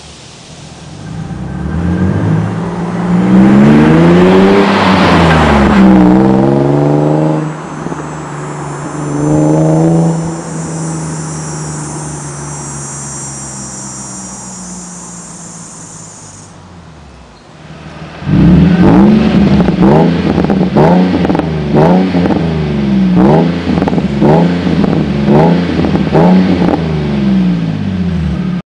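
Nissan 350Z's V6 exhaust being revved: one rev up and back down a few seconds in, a shorter blip near ten seconds, then dropping back toward idle. From about eighteen seconds, a rapid string of quick throttle blips, roughly one a second.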